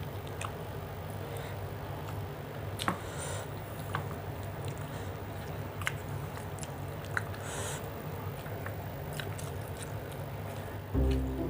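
A person chewing food, with scattered small clicks and a couple of short hissy breaths, over a steady low hum. Music starts near the end.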